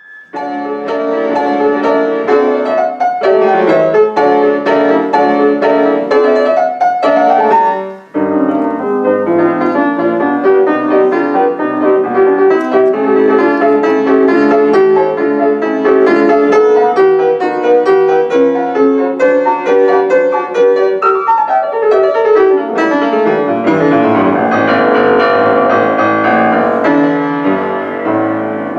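Piano playing a quick-moving piece, dense with notes, with a short break about eight seconds in.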